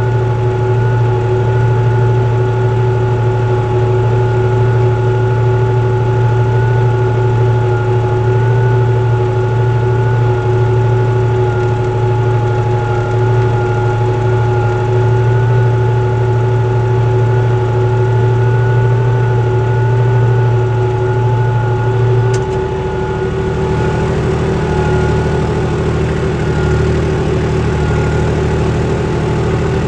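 Farm tractor's diesel engine running steadily under the load of a four-furrow plough. Its low drone shifts to a different pitch about 22 seconds in.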